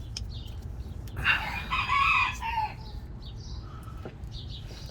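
A rooster crowing once, starting about a second in and lasting about a second and a half, ending on a falling note. Small birds chirp faintly around it.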